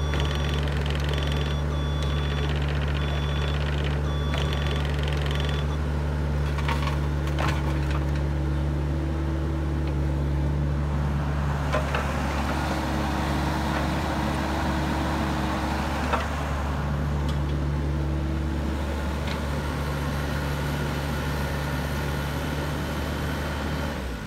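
Bobcat E26 compact excavator's diesel engine running steadily. For the first several seconds a warning alarm beeps about once a second. Later come a few sharp metal clanks and a steady whine with a hiss as the machine works.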